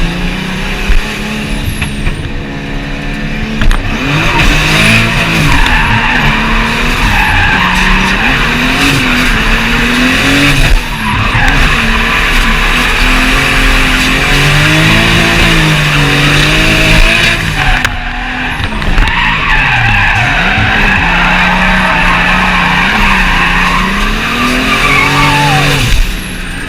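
Drift car engines revving up and down hard while their tyres squeal through long slides.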